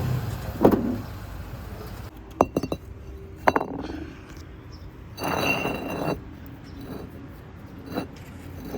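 Work on a car's underside: a string of light metallic clinks and knocks from tools and fasteners, with a short scraping rattle about five seconds in and another click near the end.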